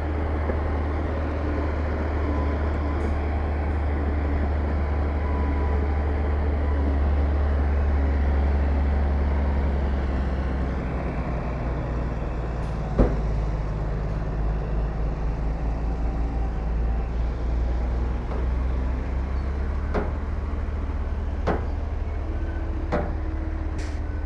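Heavy diesel earthmoving machinery running with a steady low drone that eases slightly about halfway through. A single sharp clank about halfway through, and a few lighter clanks near the end.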